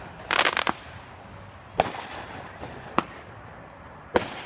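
Fireworks going off: a quick rattle of sharp cracks about half a second in, then three single sharp bangs roughly a second apart.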